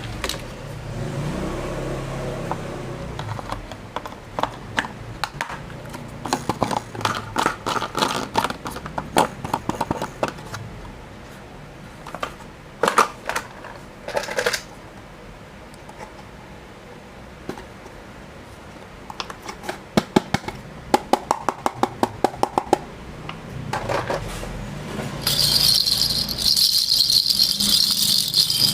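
Plastic toy vehicles clattering and rattling as they are handled and unpacked, in quick runs of clicks and knocks. Near the end a steady high hiss comes in.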